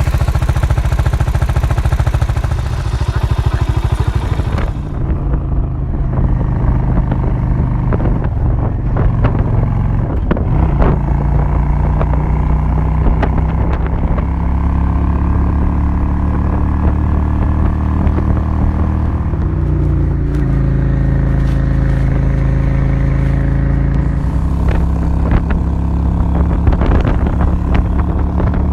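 Suzuki S40's single-cylinder four-stroke engine running under way, its note stepping to a new pitch several times as throttle and gears change. A rushing hiss covers the first five seconds.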